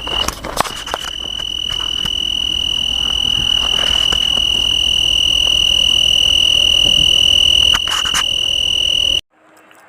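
Cricket trilling: one continuous high-pitched trill that grows steadily louder, with a few faint clicks near the start, then cuts off suddenly near the end.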